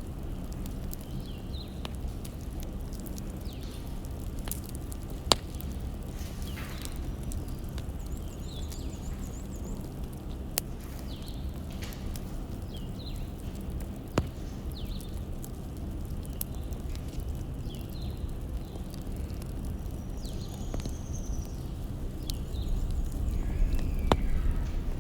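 Wood fire crackling steadily over a low rumble, with a few sharp pops spaced several seconds apart and small hisses.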